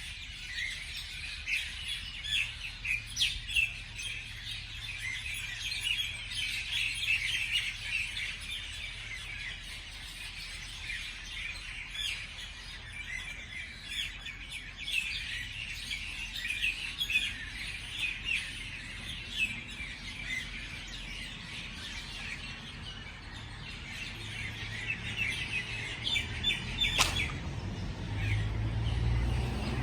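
Several songbirds chirping, a dense run of short, high chirps. Near the end there is a single sharp click and a low rumble.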